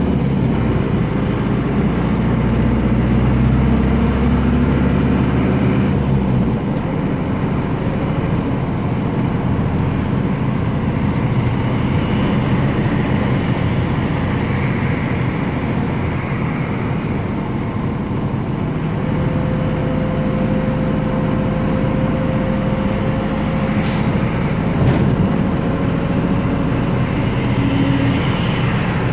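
Air-cooled Deutz F4L912 four-cylinder diesel engine of an Otokar M-2000 minibus running while under way, heard from inside the cabin; the engine note drops and changes about six seconds in. A short sharp sound comes a few seconds before the end.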